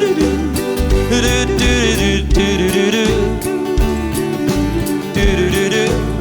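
Live band playing an upbeat country-style song with a steady beat, a melodic break between sung verses.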